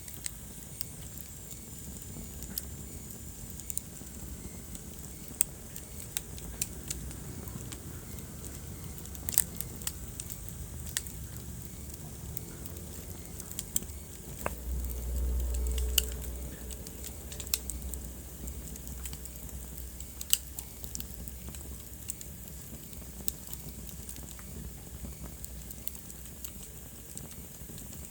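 Wood fire in a fireplace crackling, with irregular sharp pops over a low steady rumble of flames; the rumble swells for about a second and a half about halfway through.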